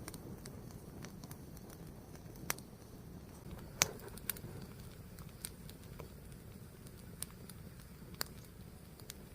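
Fire burning: a steady low rumble with scattered sharp crackling pops, the loudest a little under four seconds in.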